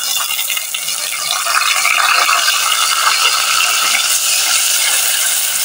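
Wet ginger-garlic, cumin and black pepper paste sizzling in hot oil with browned onions in a metal pot, growing a little louder in the first couple of seconds, while a metal ladle stirs and scrapes against the pot.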